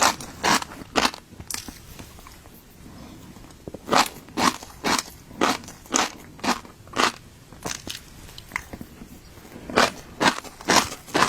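Close-up crunchy chewing of fish roe, sharp crunches at about two a second in runs. The crunching stops for two or three seconds about a second in, then starts again.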